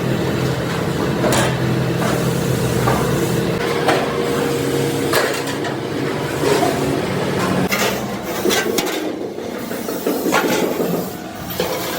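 Metalworking shop noise while motorcycle fuel tanks are being made: a steady machine hum with irregular metal knocks and clanks every second or two. The hum drops away about two-thirds of the way through.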